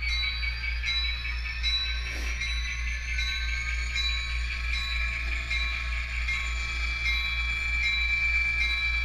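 Model train locomotive running on the layout track: a steady low hum under a high whine that slowly rises in pitch, with light clicks at fairly even spacing.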